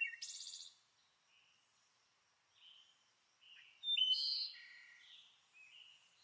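Birds chirping: a scatter of short, high calls, the loudest near the start and about four seconds in.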